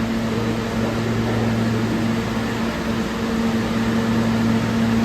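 New York City subway train standing at the platform, its onboard equipment giving off a steady electrical hum with a low, even tone.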